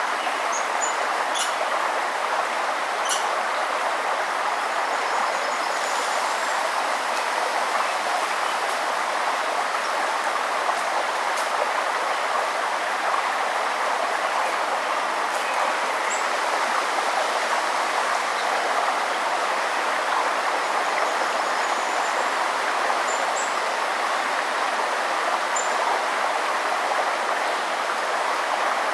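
A forest stream or river rushing steadily, with a few brief, faint, high bird chirps over it, mostly in the first few seconds and again now and then later.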